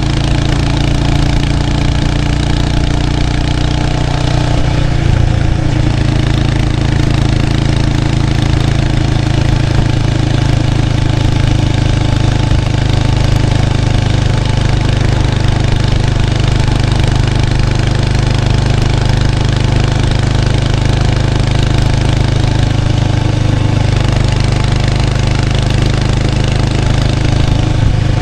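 Exhaust note of a 1993 Kawasaki Estrella's 250cc air-cooled single-cylinder four-stroke engine through its stock muffler, heard close up at the rear of the bike while riding. The engine runs steadily, with a brief change in engine pitch about five seconds in.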